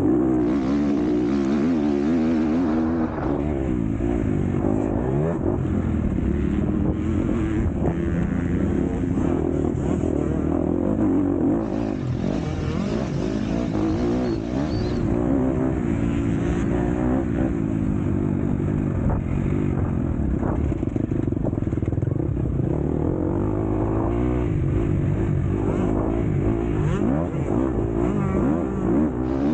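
MX2 motocross bike's engine running hard without a break, its revs climbing and dropping again and again every second or two.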